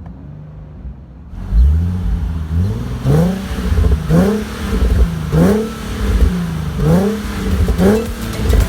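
Nissan 370Z's 3.7-litre V6 through a Kinney's Street Demon performance exhaust: idling, then revved up about a second and a half in, followed by five quick blips of the throttle about a second apart.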